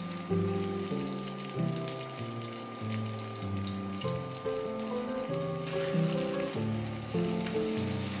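Chicken and cheddar patties sizzling in hot oil in a frying pan, with small pops and crackles, under background music.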